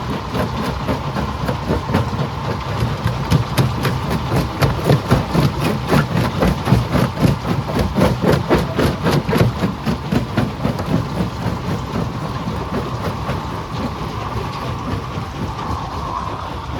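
Stone crusher running with rock rattling and knocking through it in a rapid, uneven clatter over a steady machine noise. The knocking is busiest in the middle and eases off over the last few seconds.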